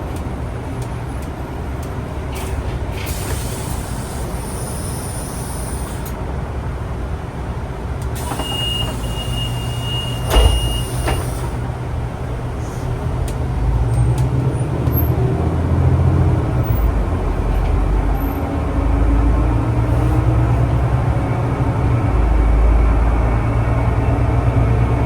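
Ride inside a city bus: the engine rumbles steadily, air hisses twice near the start and middle, a high beep sounds for a couple of seconds with a thump at its end, and then the engine pulls harder.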